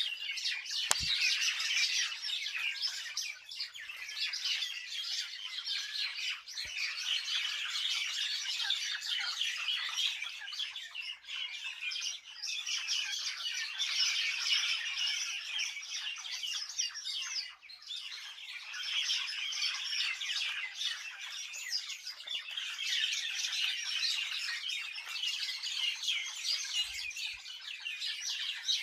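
Many small birds chirping and twittering at once, a dense, continuous chorus of short high calls with no pauses.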